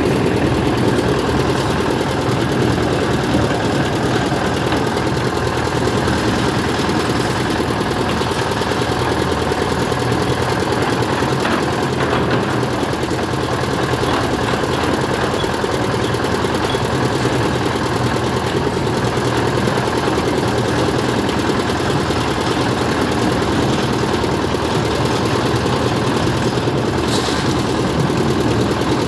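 An engine running steadily at one speed, with no revving, for the whole stretch.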